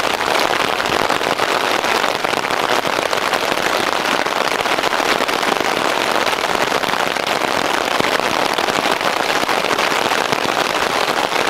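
Heavy rain pelting the nylon of a tarp shelter overhead, a dense, steady patter of countless drops.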